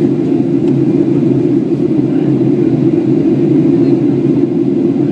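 Steady cabin rumble of a Boeing 737-800 in flight, the CFM56 engines and airflow blending into one low, even roar.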